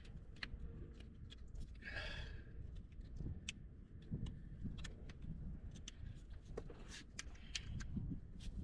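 Scattered, irregular clicks and clinks of hand tools working loose the intake manifold bolts on a 2015 Camaro engine, with a heavy breath about two seconds in.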